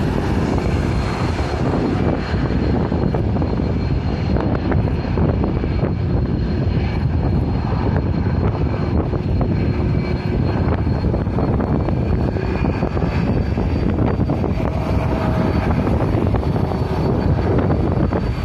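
Jet airliner's engines running loud and steady, a dense rushing noise with a thin high whine that edges slightly upward in pitch.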